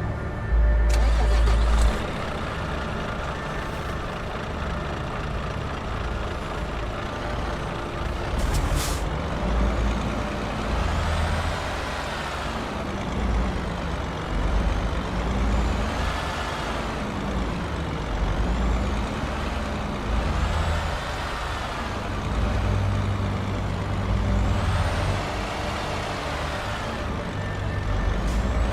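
Heavy vehicle engine running, its pitch rising and falling every few seconds, with a loud low rumble in the first two seconds and a short air hiss about nine seconds in.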